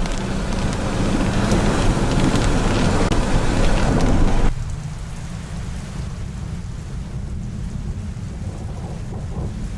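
Heavy rain hissing with a fine patter of drops over a low rumble; about four and a half seconds in the rain sound cuts off abruptly, leaving only the steady low rumble.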